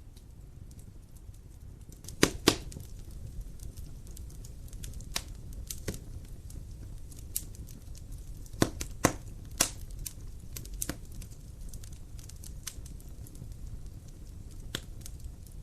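Wood fire in a fireplace crackling, with irregular sharp pops over a low steady rumble; the loudest pops come as a pair about two seconds in and a cluster of three around nine seconds in.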